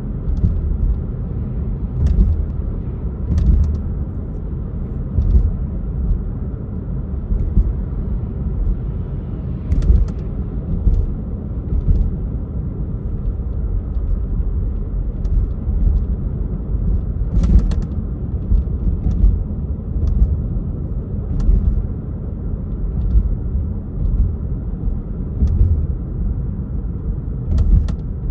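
Steady low rumble of a car driving, with a few short knocks as it goes.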